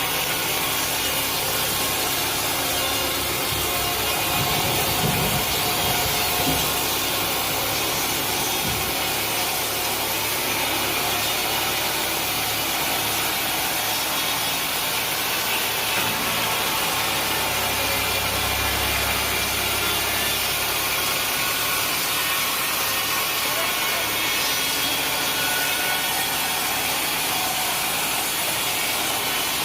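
Sawmill saw cutting steadily through mahogany wood, a continuous high-pitched noise with no break.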